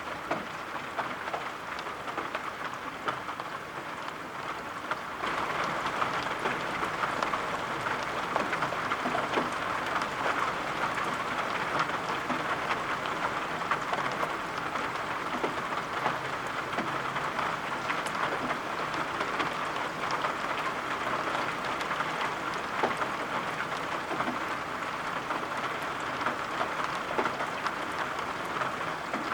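Steady rain falling, an even hiss with many small drop ticks in it. It grows slightly louder about five seconds in and then holds steady.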